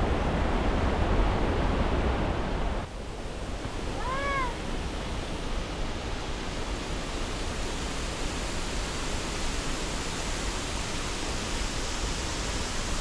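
Rushing water of a mountain stream and waterfall, a steady hiss. About three seconds in it drops suddenly in level and turns thinner and more hissing, and a second later a single short high call rises and falls once.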